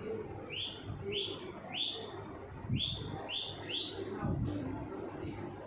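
Ringneck parrot giving a quick series of about six short, rising whistled chirps, with one more near the end.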